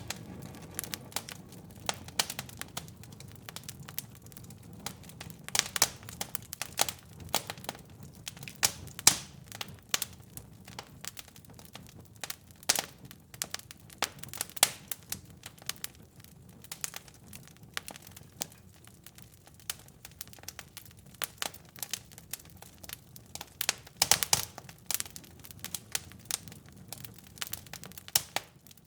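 Wood fire in a fireplace crackling: irregular sharp pops and snaps over a low steady rumble of the flames, with denser bursts of louder pops now and then.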